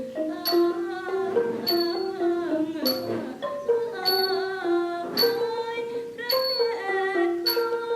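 Thai traditional ensemble playing a slow melody, with a small pair of hand cymbals (ching) struck about once a second to keep the beat.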